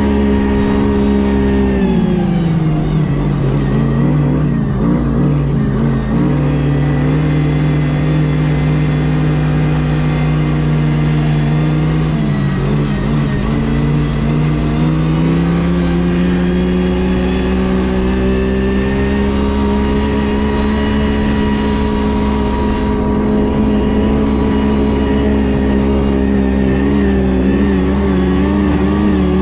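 Ski-Doo GSX 600 HO snowmobile's two-stroke twin engine running under way. Its revs drop about two seconds in and stay low for a while, then climb gradually around the middle, hold, and ease off again near the end.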